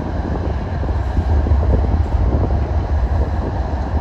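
Canadian Pacific freight train of covered hopper cars rolling past close, with its diesel locomotives pulling: a loud, steady low rumble of wheels on rail.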